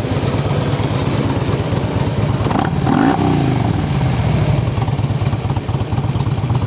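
2004 Harley-Davidson Ultra Classic's Twin Cam 88 V-twin, breathing through slip-on mufflers, idling with its uneven beat. About two and a half seconds in the throttle is blipped once, and the revs rise and then fall back to idle.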